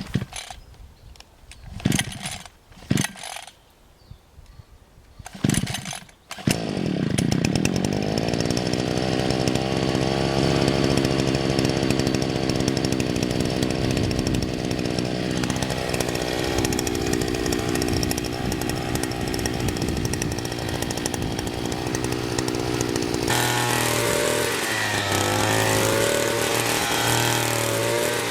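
Petrol grass trimmer (brush cutter): after a few short sharp sounds, its small engine starts about six seconds in and runs steadily while cutting grass, its pitch wavering in the last few seconds.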